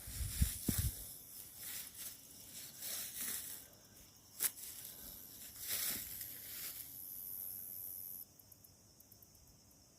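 Footsteps crunching and rustling through dry leaf litter on the forest floor, with a few soft thuds early on. The steps die down after about eight seconds, leaving a faint high, pulsing insect trill.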